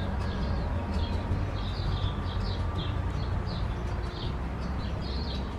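A small songbird chirping over and over, short high chirps about two or three a second, over a steady low rumble.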